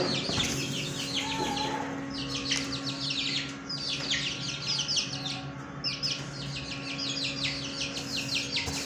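A group of small caged fancy birds chirping busily: rapid runs of short, high, falling chirps that come in clusters every second or two, many birds at once.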